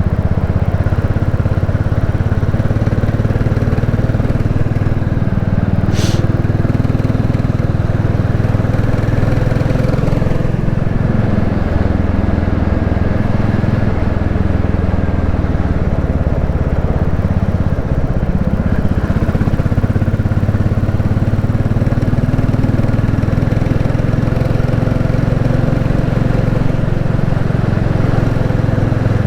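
Royal Enfield Classic 350's single-cylinder engine running steadily while riding, its note dipping and rising a few times with throttle and gear changes. A short sharp click comes about six seconds in.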